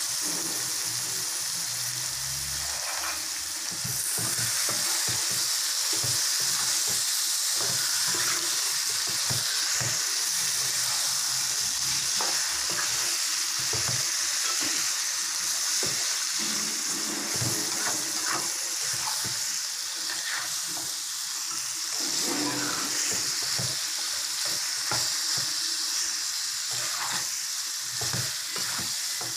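Food frying in hot oil in a pan, a steady sizzle that grows louder about four seconds in, with a spoon or spatula stirring and scraping against the pan now and then.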